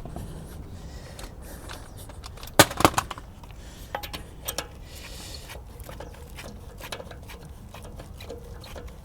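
A quick cluster of sharp knocks and clinks of small hard objects being handled, about two and a half seconds in, then a few lighter clicks a second or so later, over a steady low background noise.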